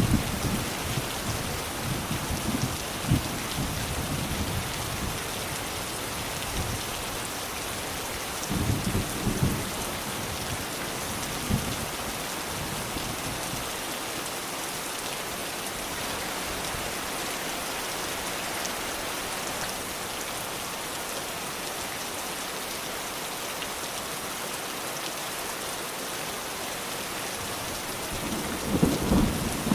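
Steady rain falling, with low rumbles of thunder in the first few seconds, again about nine seconds in, and building again near the end.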